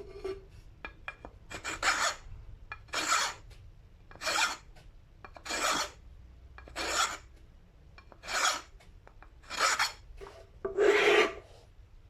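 Eight slow, even scraping strokes about a second and a quarter apart, the last one a little longer and heavier, with a few light clicks just before the first.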